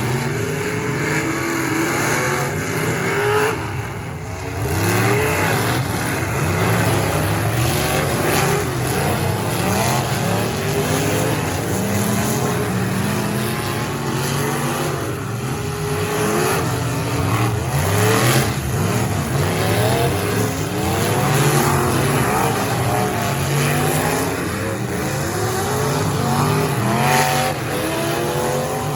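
Several race car engines revving and accelerating over and over, their pitch rising and falling as the cars lap a dirt-track figure-8.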